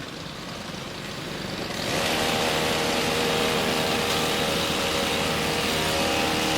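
An engine running steadily. It grows louder about two seconds in and then holds.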